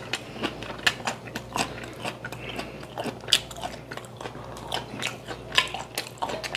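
Close-up chewing of tender boiled pork dipped in soybean paste: wet mouth smacks and clicks at an irregular rate.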